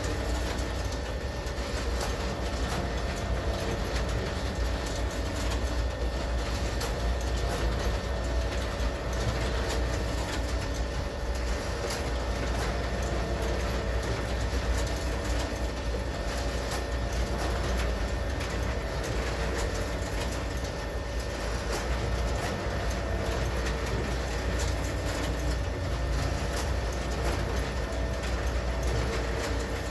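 Freight train cars, boxcars, tank cars and covered hoppers, rolling past: a steady rumble of steel wheels on the rails with faint clicks at the rail joints, unchanging throughout.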